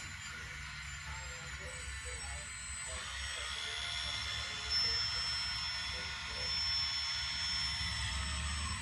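Small electric motors and pumps of radio-controlled construction machines running, a steady high whine made of several tones, which grows louder about three seconds in.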